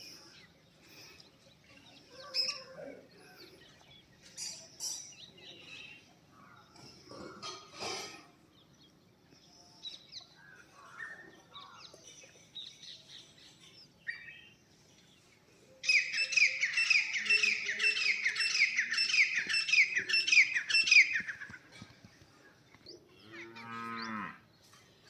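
Outdoor village sounds with scattered bird calls, then a loud bird's rapid chattering call repeated many times a second for about five seconds. Near the end a cow gives one short, falling moo.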